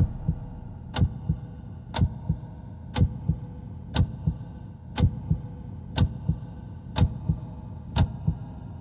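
Suspense sound-effect cue: a sharp clock-like tick once a second, each tick followed by a low heartbeat-like double thump, marking a tense wait for a decision.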